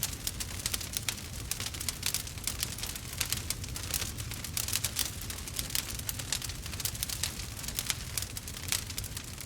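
Wood fire burning with a dense, continuous crackle of many small sharp pops, over a low steady rumble.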